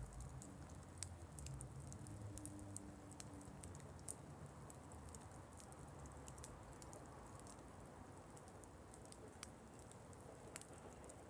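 Wood offcuts burning in a fire stand, crackling faintly with scattered, irregular pops.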